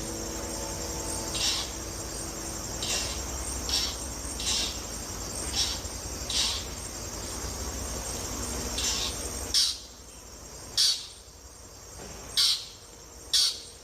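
Steady high insect trilling with short, high chirps repeating about once a second; a low background rumble drops away about ten seconds in.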